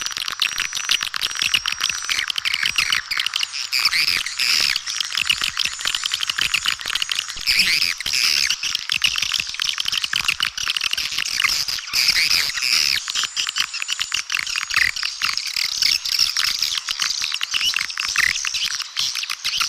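Swiftlets twittering in a dense, continuous chatter of quick high chirps and short trills. It is a swiftlet call recording, the kind played to attract swiftlets.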